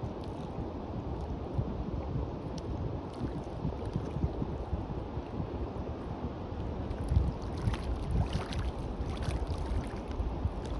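Sea waves washing on a beach, with wind buffeting the microphone in a steady low rumble; a few lighter splashes stand out about seven to nine seconds in.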